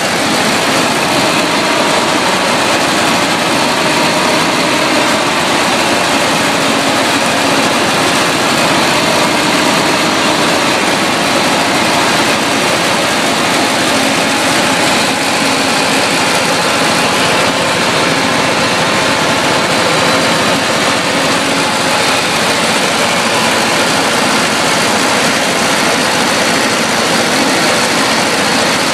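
Ford 8N tractor's four-cylinder flathead engine running steadily at a little throttle. The engine stalls when given throttle, a fault the owner suspects lies in the governor.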